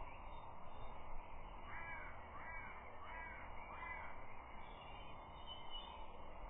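A bird calling four times in quick succession, starting about two seconds in, over a steady background hiss.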